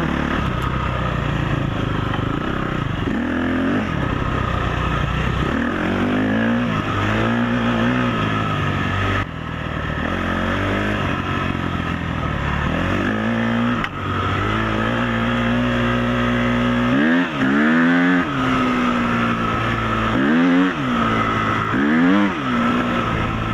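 Dirt bike engine revving up and down as it is ridden off-road, its pitch rising and falling every second or two, with several quick sharp rises and drops in the later part.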